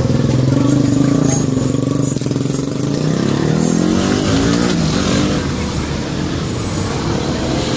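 Motor vehicle engine running nearby, its pitch rising about three seconds in as it accelerates, with a steady low hum underneath.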